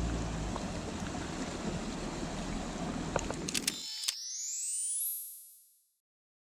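Steady rush of a mountain stream, with a few sharp clicks about three to four seconds in. The water cuts off abruptly and a rising electronic sweep plays and fades out, followed by silence.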